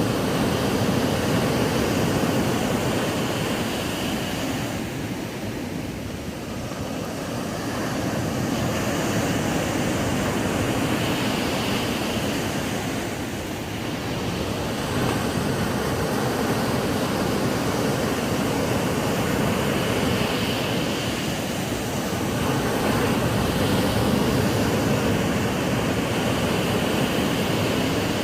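Ocean waves breaking on a sandy beach: a continuous wash of surf that swells and eases slowly, dipping briefly about a fifth of the way in and again about halfway.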